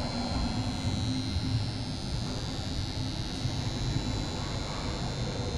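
Electrofusion welding unit running: a steady machine hum and rumble with a thin, constant high-pitched whine.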